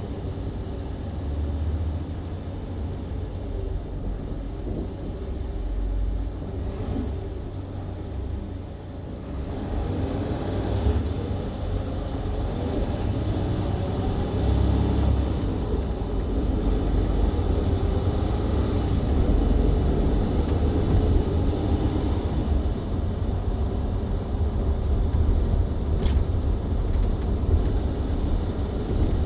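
Mercedes-Benz Citaro C2 LE hybrid bus with Voith automatic gearbox, heard on board while driving: a steady diesel engine rumble that grows louder about a third of the way in as the bus pulls away and keeps accelerating. A single sharp click sounds near the end.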